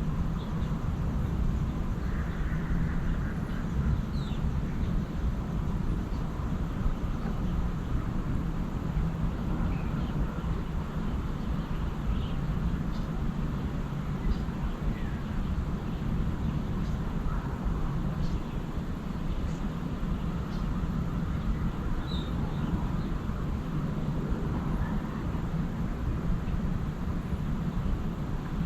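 Outdoor morning ambience: a steady low rumble, with scattered short bird chirps and calls over it.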